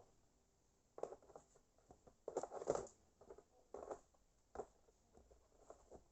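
Handling noises from a drill kit being sorted by hand: short clicks, scrapes and rustles of a soft plastic case and loose parts, in a few separate bursts, loudest a little under three seconds in.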